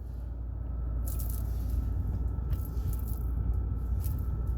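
A steady low rumble with scattered rustles and small clicks of handling noise.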